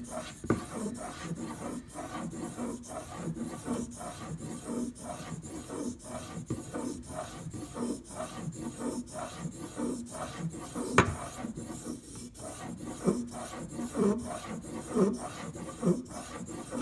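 Steel knife edge being stroked back and forth across a 2000-grit sharpening stone in a clamp guide, making a steady rhythm of short rasping strokes. One sharp click about eleven seconds in.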